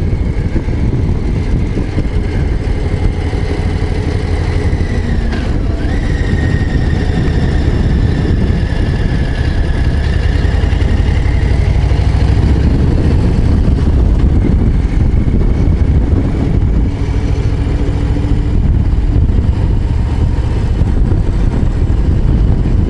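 Harley-Davidson Low Rider ST's Milwaukee-Eight 117 V-twin running with a steady, deep exhaust rumble while the bike rides downhill in fourth gear, the engine braking on the overrun.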